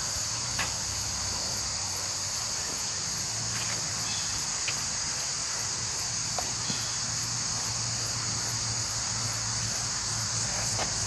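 A steady, high-pitched chorus of insects buzzing, with a faint even pulsing above it and a few small clicks.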